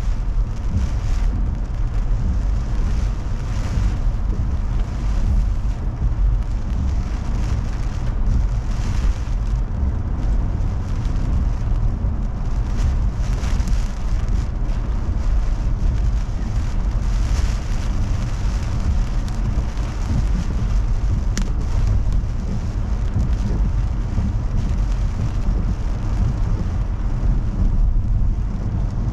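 Heavy typhoon rain falling on a moving car, over the steady low rumble of the car and the road.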